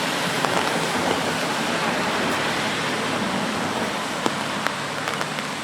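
Steady rain on a street: an even hiss, with a few sharp drip taps near the end.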